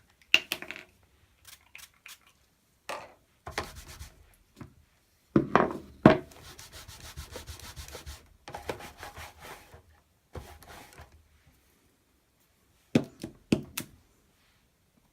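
Rubber stamp and craft tools being handled on a tabletop: scattered taps and knocks as the stamp is inked on an ink pad and pressed onto card, with a few seconds of rubbing in the middle.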